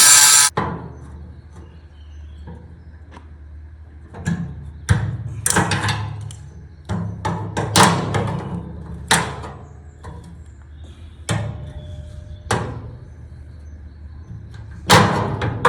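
An angle grinder running on steel cuts off about half a second in. After it come irregular knocks and clanks on metal, each ringing briefly, with a louder flurry near the end.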